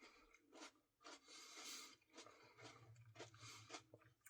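Near silence: room tone with faint scattered clicks and a brief soft rustle about a second and a half in.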